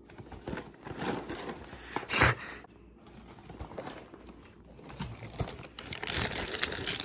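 Handling noises: cardboard and packaging rustling and crinkling, with a sharp knock about two seconds in and busier rustling near the end.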